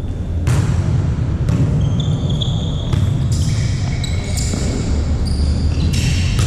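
Volleyball play on an indoor court: a handful of sharp ball hits a second or so apart, mixed with short high squeaks of sneakers on the gym floor, over a heavy low rumble.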